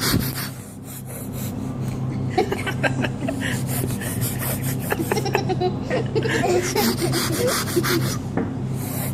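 Subway train running: a steady low hum with a continuous rasping, rattling clatter.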